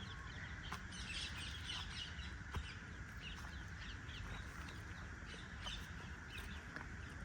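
Wild birds chirping and calling again and again over a steady high drone, with a few faint clicks.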